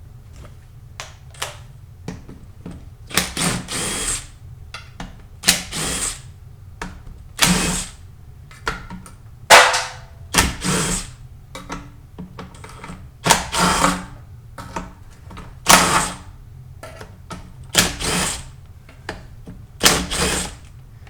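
A power drill running in short bursts of about a second, roughly every two seconds, most likely spinning out fasteners on a transmission during teardown.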